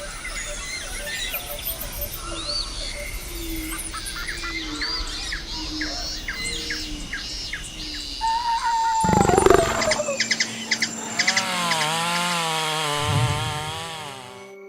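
Rainforest soundscape: many birds chirping and whistling over a steady background. About nine seconds in, a louder swell with a falling tone comes in, followed by long wavering tones.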